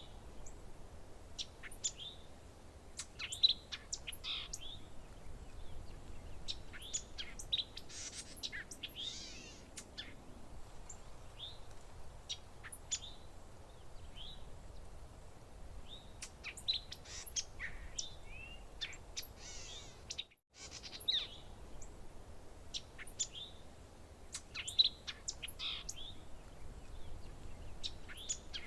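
Several small songbirds chirping and calling in short, quick notes and trills, over a faint low background hum. The sound cuts out completely for a split second about two-thirds of the way through.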